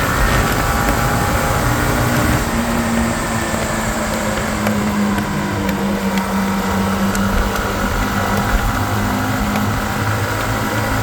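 Motorcycle engine running while riding, its note holding fairly steady, with wind and road rumble on a helmet-mounted microphone.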